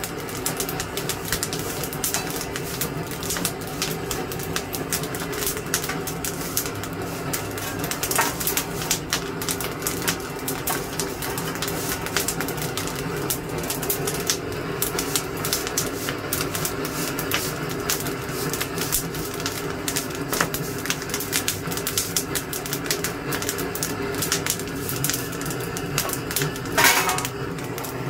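Wood fire crackling and popping steadily over a low steady hum, with one louder burst of noise near the end.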